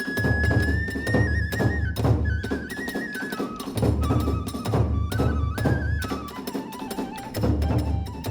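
Kagura hayashi music: a bamboo transverse flute plays a high melody that steps gradually downward. Under it, groups of deep drum beats alternate with short gaps, and sharp hand-cymbal clashes sound throughout.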